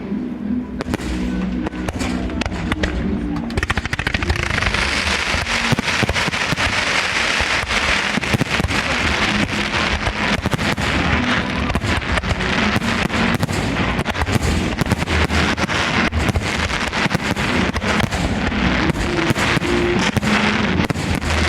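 Fireworks display: a dense, continuous crackle of rapid pops and bangs that thickens sharply about four seconds in. Music with steady low tones plays underneath.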